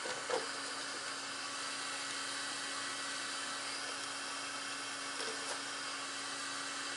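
Small electric cooling fan in an RC truck's radio box running steadily at top speed, a quiet even whir with a faint hum. A few light plastic knocks shortly after the start and about five seconds in.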